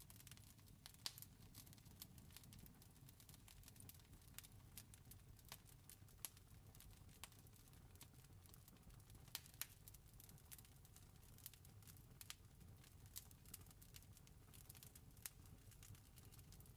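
Wood campfire crackling faintly: irregular sharp snaps and pops over a steady low rumble.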